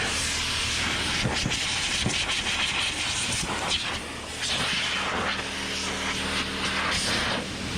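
Electric motorcycle blower running, a steady motor hum under a loud rush of air that swells and dips as the nozzle is moved around, blowing loose dust and debris out of a car interior.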